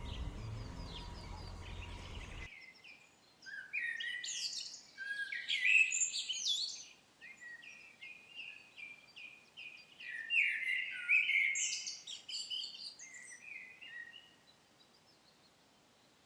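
Wild birds singing: clusters of high chirps and quick falling whistled notes, some repeated several times a second. A low background hum runs before them and cuts off abruptly a couple of seconds in.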